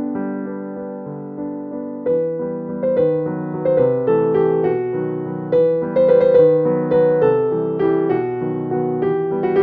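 Background music: a gentle piano or electric piano playing held chords and a slow melody, notes striking and fading.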